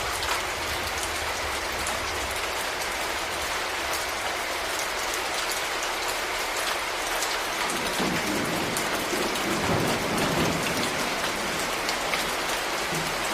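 Steady rain falling on surfaces. About two-thirds of the way through, a low rumble of distant thunder rises and then fades.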